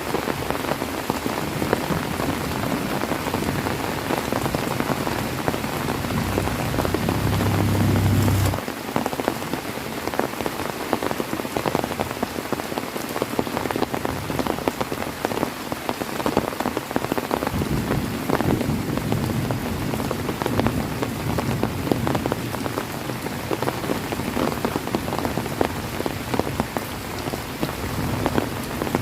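Heavy rain falling steadily, a dense patter of drops hitting surfaces. A low rumble swells under it and cuts off suddenly about eight seconds in, and another low rumble comes in about two-thirds of the way through.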